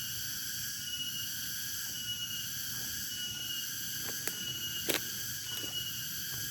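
A steady outdoor chorus of insects shrilling at several fixed pitches, with one short high note repeating about once a second. A few sharp clicks or knocks come in the second half, the loudest about five seconds in.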